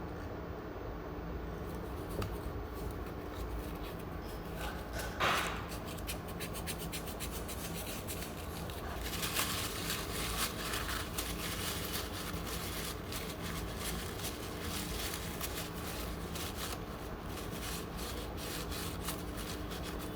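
Scratching and rubbing on small parts, with many small clicks and a short loud scrape about five seconds in, over a steady low electrical hum.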